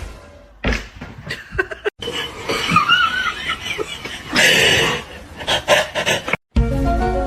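People laughing, in short pieces with abrupt cuts between them. Near the end it cuts to music with steady held notes.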